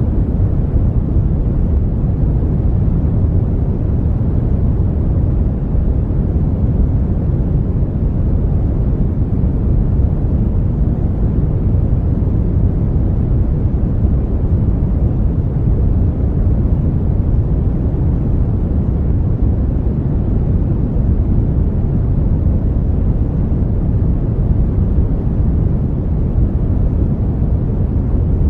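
Brown noise: a steady, unchanging deep rushing hiss, strongest in the low end and falling away toward the highs.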